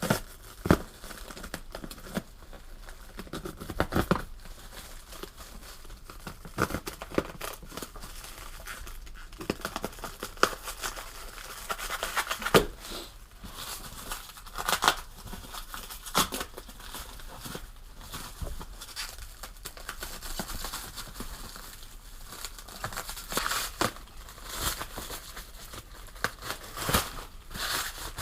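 A box cutter slicing and packaging being torn open and crumpled, in irregular scrapes, rustles and sharp clicks.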